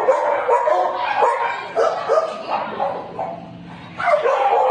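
Dogs barking and yipping in quick, overlapping calls, dying down about three seconds in and starting up again near the end.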